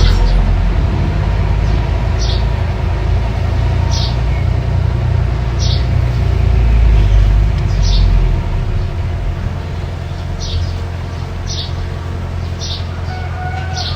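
Small bulldozer's engine running with a steady low rumble, heavier for the first eight seconds and then easing off. Short high chirps recur every second or two over it.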